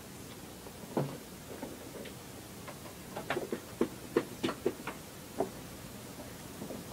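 Irregular light clicks and taps from handling a laptop: one about a second in, then a quick run of about ten clicks in the middle.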